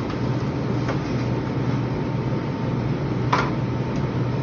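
Steady hum of refrigeration equipment, with a sharp click about three seconds in and a fainter one shortly after.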